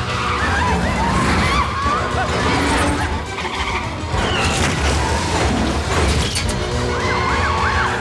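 Movie car-chase sound mix: engines and screeching tyres over an orchestral-style action score, with a few sharp crash impacts midway.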